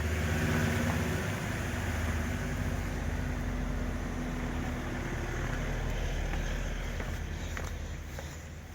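A motor vehicle's engine running steadily, a low hum under a steady hiss; it starts abruptly and eases off a little near the end.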